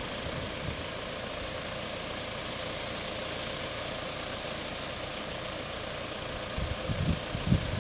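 Steady hum of a car engine idling, with a few low thumps near the end.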